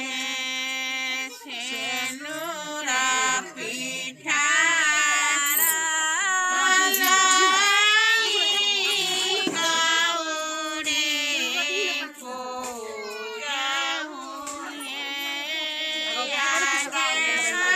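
A high-pitched voice singing long, wavering held notes with short breaks between phrases, with no low accompaniment.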